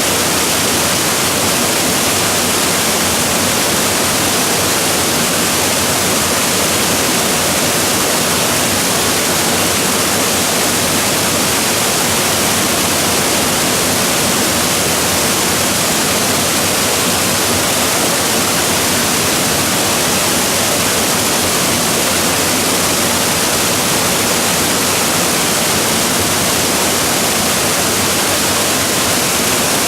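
Waterfall crashing steadily: a loud, even rush of falling water with no breaks.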